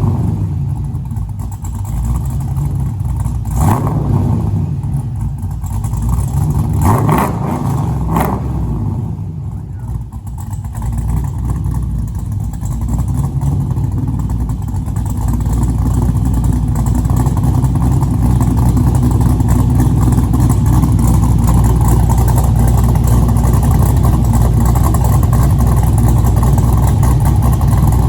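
LS1 V8 with a 615/596 cam running through a true dual exhaust: a few quick throttle blips in the first several seconds, then a steady, louder exhaust sound from about halfway on.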